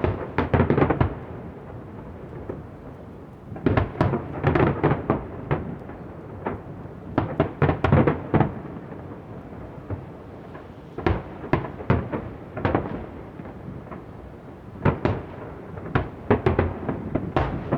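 Fireworks display: aerial shells bursting in rapid clusters of bangs, a volley about every three to four seconds, with a low rumble between the volleys.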